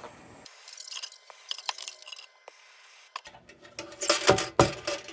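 Soldering iron working solder into a seam on a metal lantern. There are faint clicks, then a run of sharp taps and crackles starting a little before the end, as the solder refuses to stick in the gap.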